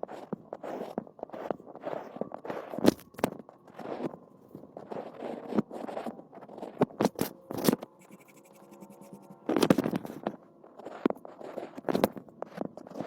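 Scraping and scratching in irregular strokes, with several sharp clicks.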